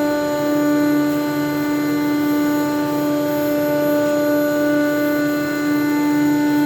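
ShopSabre CNC router spindle running at speed while cutting King StarBoard HDPE sheet: a loud, steady whine with no break.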